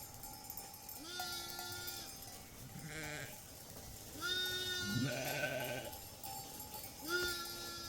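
Sheep and goats bleating: several separate calls of about a second each, some overlapping, with one quavering call.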